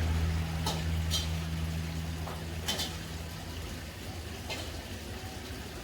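Broth bubbling in a jim jum clay hotpot over a strong fire, with a few light clicks. A low hum fades out over the first couple of seconds.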